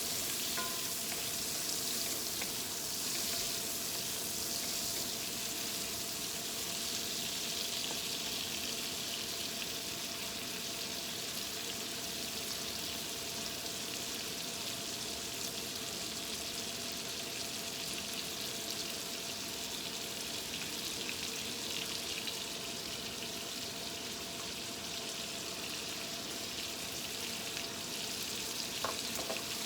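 Chicken, prawns and vegetables frying in a hot pan with a steady sizzle and a faint steady hum underneath. A couple of light clicks come near the end.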